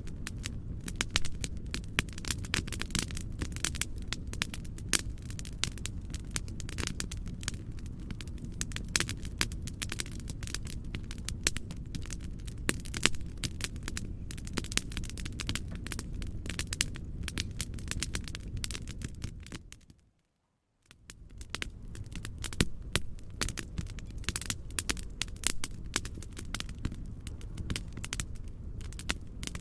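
Fireplace crackling: a dense run of sharp pops and snaps over a steady low rumble. About twenty seconds in, the sound fades out to silence for under a second and fades back in.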